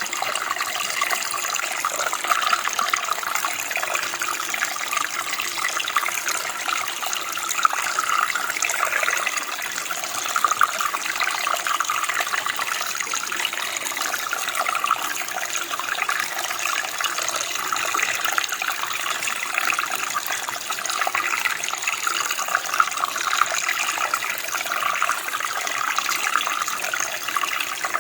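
Running water from a small stream, a steady splashing and trickling flow with no pauses.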